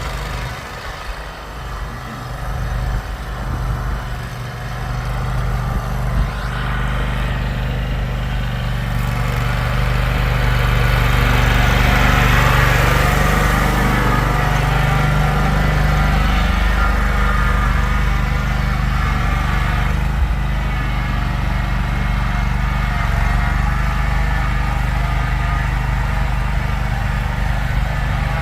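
An engine running steadily, growing louder for a few seconds around the middle and then holding steady.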